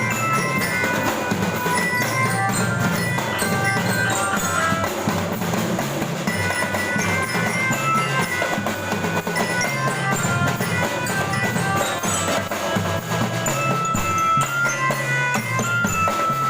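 Student drum band playing: drums and bass drum keep a steady beat under a bright melody of short notes.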